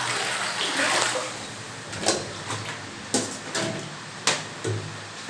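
Steady rush of heavy rain and running water, with three sharp knocks about a second apart from about two seconds in.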